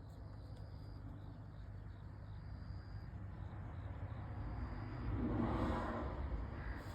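A vehicle passing over a steady low rumble of background traffic. Its noise swells and fades between about five and six and a half seconds in.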